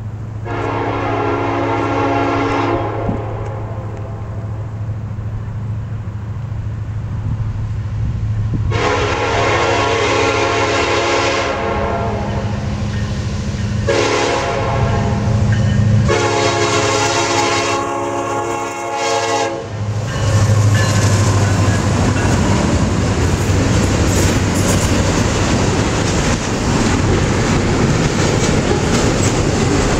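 Norfolk Southern freight train led by an EMD SD70ACe locomotive, sounding its air horn in several blasts at a grade crossing, the last one held long, over the low rumble of the diesel. About two-thirds of the way in the locomotive passes close, and the double-stack intermodal cars roll by with steady wheel noise and clatter.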